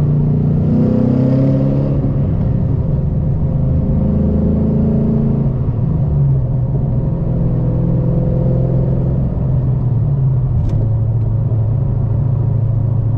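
2013 Mustang GT's 5.0 Coyote V8 running through a modified exhaust with shorty headers, an X-pipe, a cat delete and SVE mufflers. The exhaust note rises and falls a little in pitch in the first half, then holds steady.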